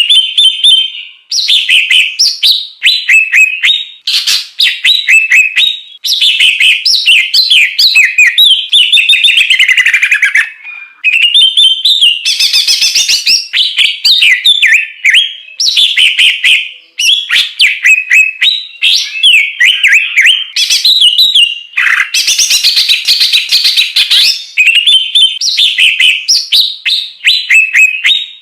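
Loud songbird song: a fast, nearly unbroken run of varied chirps, trills and whistled notes, with only short breaks. This is a masteran bird-training track of the kind used to teach caged songbirds new song material.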